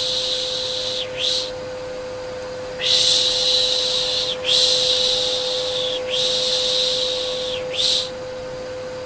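Repeated long 'shhh' shushing sounds, each lasting about a second or more with short breaks between, over the steady hum of a vacuum cleaner: a soothing sound for settling a baby to sleep.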